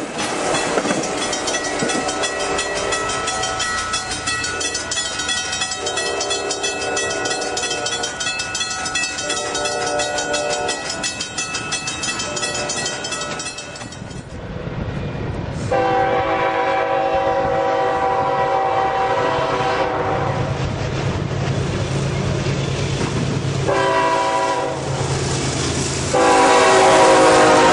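A passenger train passing a grade crossing, with rail clatter and steady ringing tones. After a cut, a freight locomotive's air horn sounds a long blast, then a short one, then a louder blast as the train rushes past.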